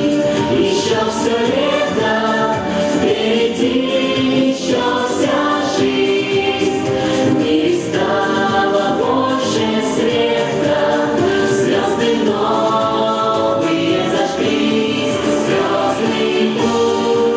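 A vocal group singing a song together over music.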